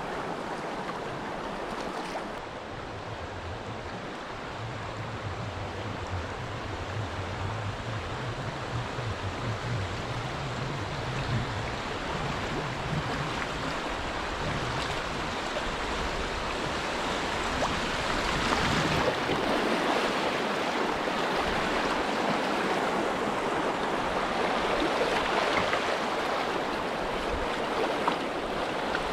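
River water rushing over riffles as kayaks paddle downstream, growing louder about two-thirds of the way through. A low steady hum runs for several seconds near the start.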